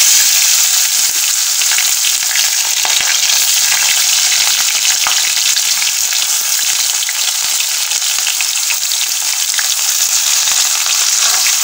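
Chopped onions sizzling in hot oil in a metal kadai, a steady loud frying hiss, with the light scrape and clicks of a spatula stirring them.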